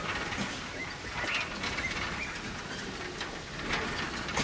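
Passenger train running along the track: a steady rumble and rail noise with irregular clacks and brief high squeaks.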